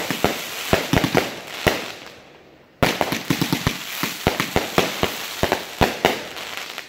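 Fireworks going off in quick succession: sharp launch bangs and bursting reports over crackling. The volley dies away about two seconds in, then a fresh string of shots starts abruptly just under a second later and fades near the end.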